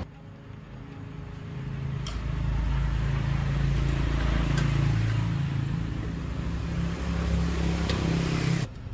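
An engine running steadily with a low, even hum that grows louder over the first few seconds, with a few faint ticks, then stops abruptly near the end.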